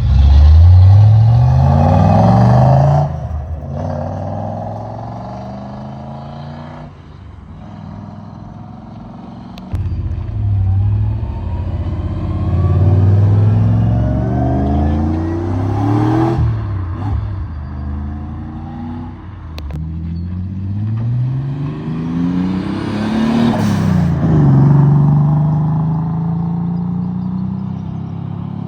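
Cars accelerating away one after another, their engines revving up in pitch and dropping back at each gear change, three times over.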